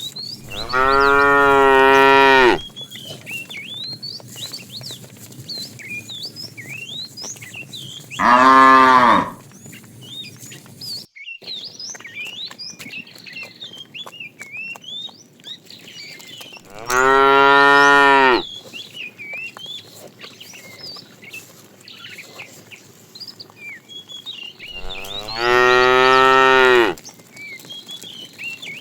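Cow mooing four times, long drawn-out moos about eight seconds apart, the second one shorter. High short chirps run throughout between the moos.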